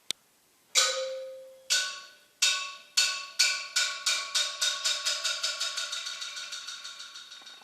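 Marimba struck again and again on the same high notes in an accelerating, fading pattern: the strokes start about a second apart and speed up into a fast patter while dying away, like a bouncing ball. A single sharp click comes just before the first stroke.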